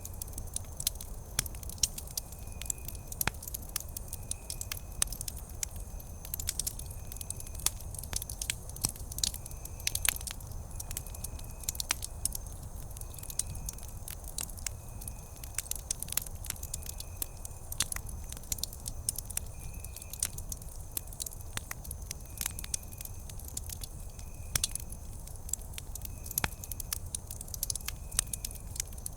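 Wood campfire burning, with constant irregular crackles and pops over a low rumble. A faint, short, high tone repeats about once a second in the background.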